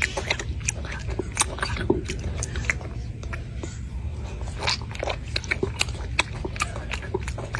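A monkey biting and chewing fruit close up, with wet, irregular crunching clicks over a steady low hum.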